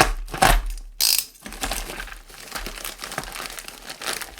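Packaging being crinkled and torn open by hand. There are loud rustling bursts and a sharp tearing rip about a second in, then steadier, quieter crinkling.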